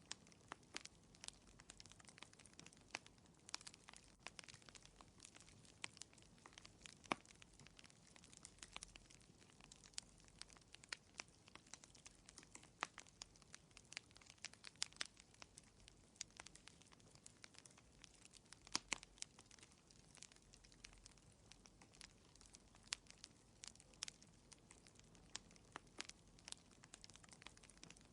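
Wood fire crackling in a fireplace: quiet, irregular sharp pops and snaps, several a second and unevenly loud, over a soft hiss.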